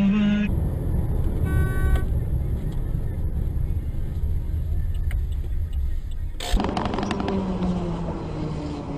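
Car on the road: a steady low engine and road rumble, with a brief horn-like tone about a second and a half in. About six and a half seconds in the sound changes abruptly to another vehicle sound with a steady low tone.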